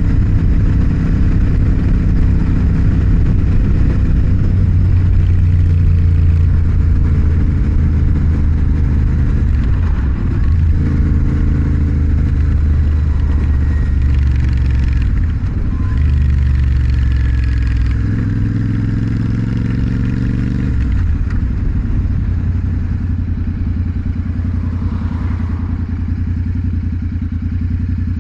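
Motorcycle engine running while riding, its revs rising and dropping with the throttle and gear changes, then settling to a lower steady note in the last quarter.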